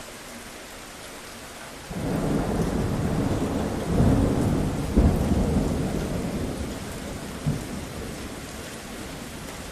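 Steady rain with a roll of thunder that breaks in suddenly about two seconds in, peaks with two sharp cracks around the middle, and rumbles off slowly.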